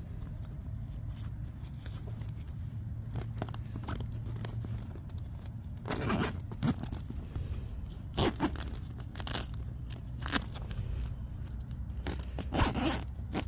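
Nylon tent door being handled and pulled open one-handed: several short bursts of scraping and rustling, starting about halfway through, over a steady low rumble.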